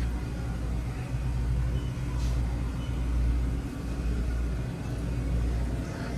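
A large vehicle's engine running with a steady low rumble and an even hum.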